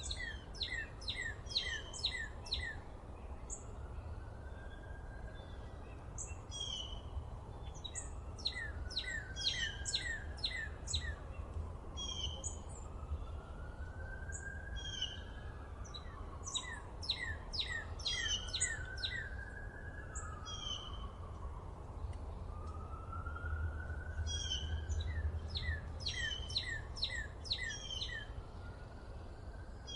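Songbirds singing: several bursts of rapid trills of short down-slurred notes, with other single chirps between them, over a steady low rumble. Through the middle, a siren wails, rising and falling slowly.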